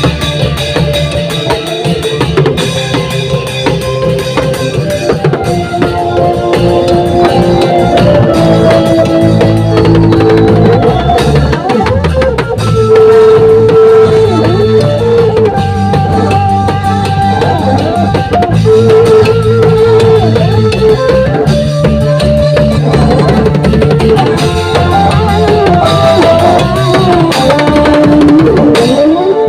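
Klong yao long-drum troupe playing loud processional music: dense, driving drumming with cymbals and a melody carried over it.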